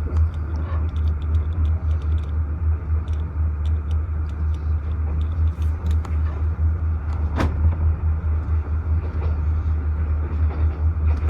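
Passenger train running at speed: a steady low rumble with scattered light clicks of the wheels over the track, and one sharper clank about seven seconds in.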